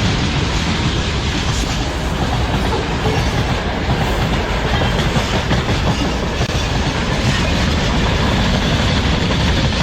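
Freight train hauled by a VL11.8 electric locomotive rolling past at close range, its wheels clattering over the rail joints in a loud, steady clickety-clack.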